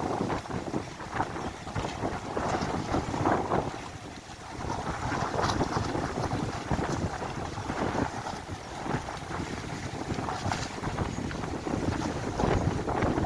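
Strong gusting storm wind buffeting the microphone, rising and falling, with a brief lull about four seconds in. Scattered sharp knocks and clatter run through it.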